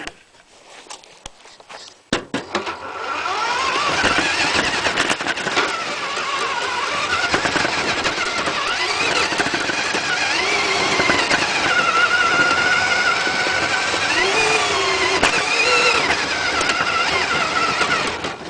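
Tamiya radio-controlled truck running, its motor's pitch rising and falling as it speeds up and slows. It starts about two to three seconds in and stops near the end.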